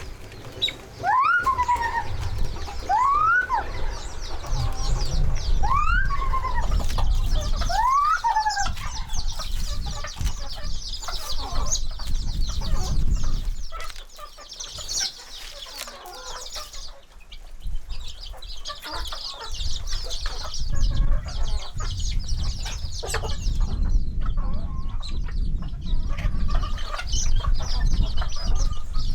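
A bird calling four times in the first several seconds, each call sweeping up and then falling back, over a steady high hiss and low rumble, with scattered clicks later on.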